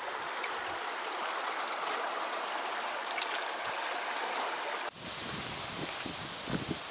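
Mountain river rushing steadily over stones. About five seconds in it cuts off abruptly, giving way to a hissier outdoor background with a few faint crunches.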